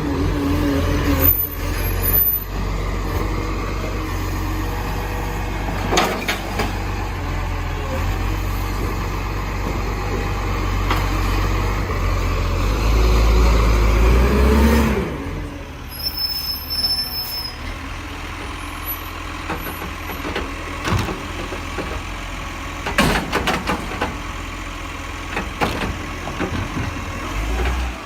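Garbage truck's diesel engine running, its pitch rising as it revs up around the middle, then dropping to a quieter idle, with a few short knocks.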